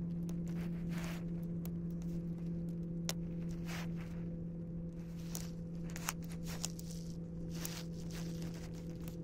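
Campfire crackling: irregular sharp pops and short crackles, with a few clustered between about five and eight seconds in, over a steady low hum.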